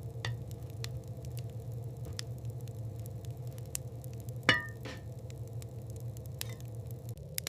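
A fire crackling with scattered small pops over a steady low rumble. There is one sharper clink with a brief ring about four and a half seconds in.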